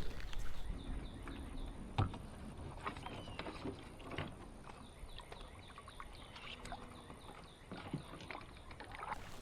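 Quiet knocks and rubs of a person shifting about in a small kayak, with scattered light taps on the hull, the clearest about two seconds in.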